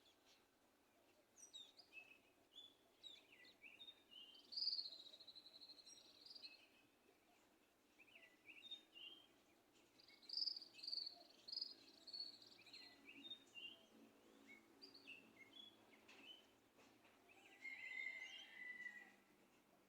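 Small songbirds chirping and singing in a faint morning chorus: many short chirps, with rapid trills about 4 to 6 seconds and 10 to 12 seconds in, and a lower trill near the end.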